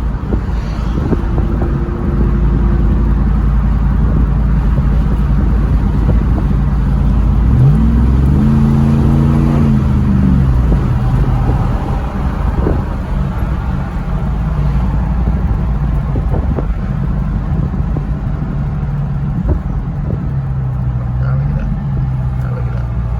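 Truck engine and road rumble heard from inside the cab while driving, the engine pitch rising as it accelerates about eight seconds in and falling back about two seconds later.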